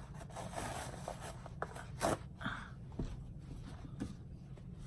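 Quiet room tone with a few light clicks or knocks, roughly a second apart, about two, three and four seconds in.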